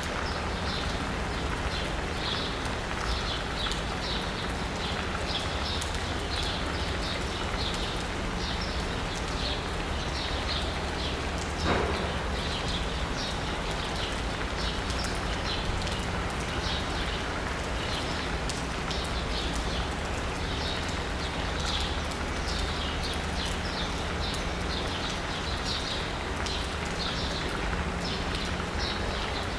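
Steady rain falling on asphalt and rooftops, with birds chirping over it again and again and a low, steady city rumble underneath. A single sharp knock comes about twelve seconds in.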